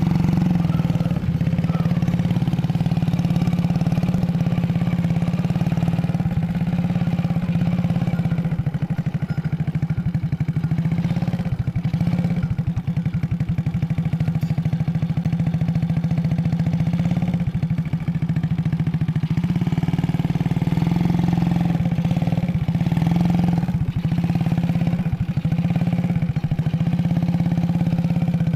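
An engine running steadily: a constant low hum with a fast even pulse that holds the same pitch and level throughout.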